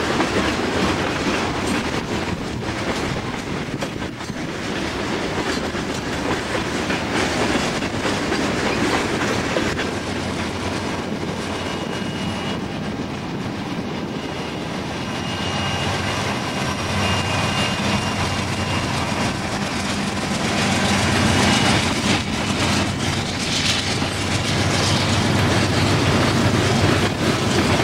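Freight train passing close by: steel wheels clattering over the rail joints above a steady rolling rumble. In the second half a diesel locomotive's low engine drone joins in as a locomotive goes by.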